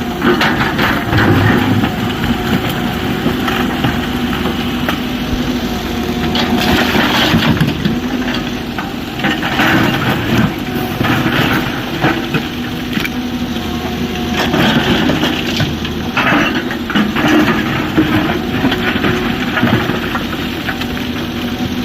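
Excavator at work: its heavy diesel engine running steadily while rock crunches and clatters at irregular moments as the bucket digs and loads a tipper truck.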